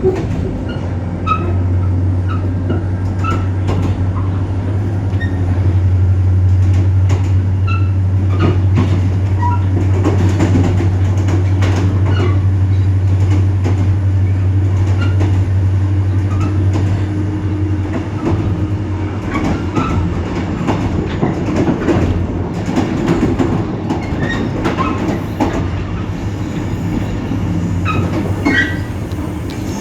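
EMD GT26CW-2 diesel locomotive's 16-cylinder two-stroke EMD 645 engine running under power, a loud steady deep drone that eases slightly about two-thirds of the way through. Rail clicks and wheel noise run with it.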